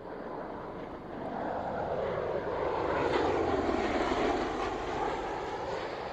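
Military jet aircraft flying past, its engine roar building to a peak about three to four seconds in and then fading away.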